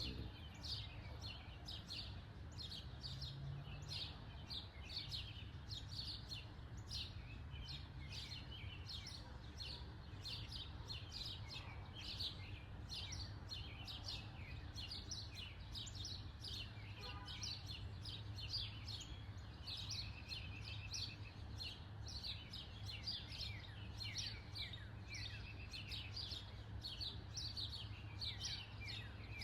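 Small birds chirping constantly, several short high chirps a second, over a steady low background rumble.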